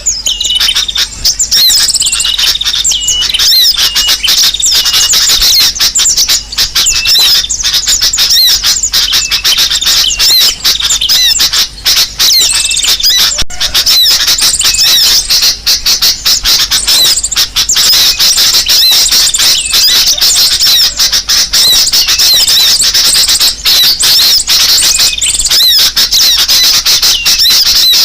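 Bird-lure recording of sunbird calls mixed with bulbul calls: dense, rapid, high-pitched chirping and short squeaky notes that go on without a break.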